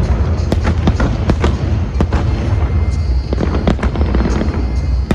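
Aerial fireworks going off in quick succession: many sharp cracks and bangs over a continuous low booming rumble.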